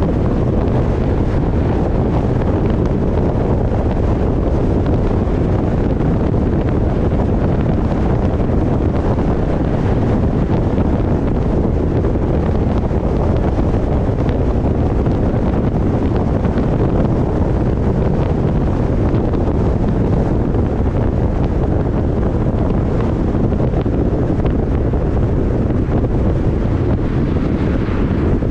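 Steady wind rushing over the microphone of an action camera mounted on the roof of a moving car.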